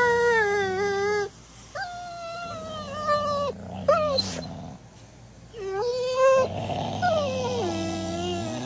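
A dog howling: about five long, drawn-out calls, mostly falling in pitch, with short breaks between them and a brief one near the middle.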